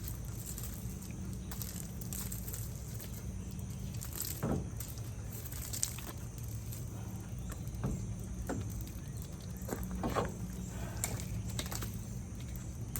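A steady low hum with a faint high whine, and a handful of scattered clicks and knocks, like equipment being handled.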